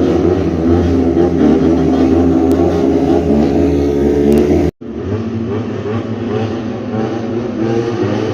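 Motorcycle with a modified, aftermarket muffler running loudly, with a steady low engine note. It cuts out for a moment a little under five seconds in, then carries on slightly quieter.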